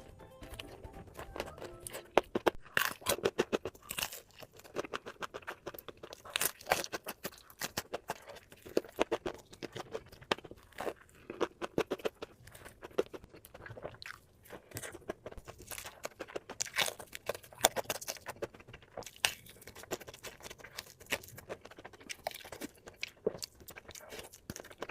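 Close-miked chewing and biting of crispy fried chicken: loud, irregular crunches of the crust in quick clusters, with softer wet chewing between them.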